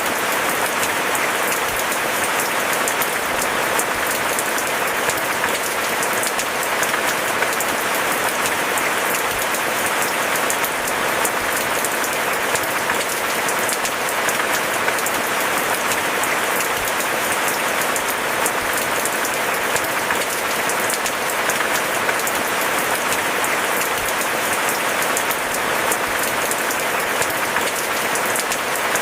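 Steady rain falling: an even, dense hiss of many small drops that holds the same level throughout, with no thunder.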